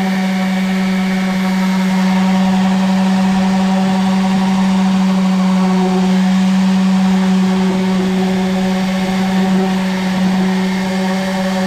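Electric sander running steadily on a wooden dresser, a constant motor hum that wavers slightly near the end.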